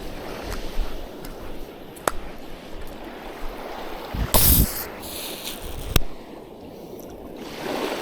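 Water flowing and lapping steadily, with a few sharp clicks and one loud brief rush of noise about four seconds in.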